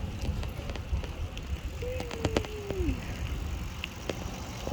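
Wind rumbling on the phone's microphone as a bicycle is pedalled fast, with a few sharp clicks and a brief tone about two seconds in that drops in pitch as it ends.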